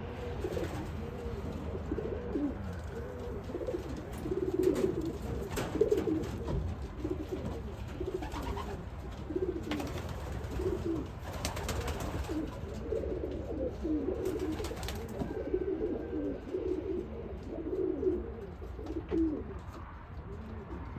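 Several racing pigeons cooing, low warbling coos overlapping almost without a break, with a few brief sharp noises among them.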